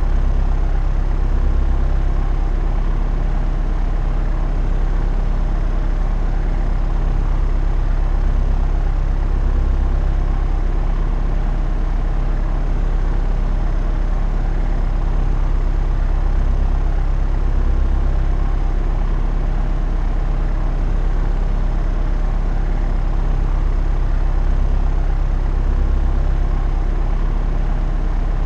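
Propeller airplane in flight: a steady, deep engine and propeller drone that swells slightly in loudness every several seconds.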